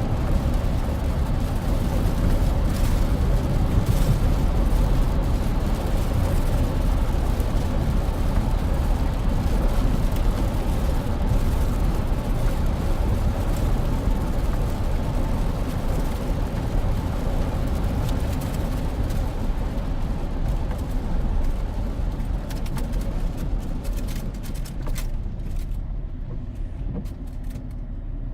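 2001 GMC Sierra pickup driving on a wet road, heard from inside the cab: a steady low rumble of engine and tyres with a hiss of road spray and occasional light clicks. The hiss eases over the last several seconds.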